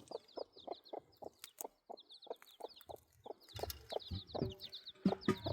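A chicken clucking in a quick, even rhythm, about five clucks a second, with many short high chirps over it. A few dull thumps come in the second half.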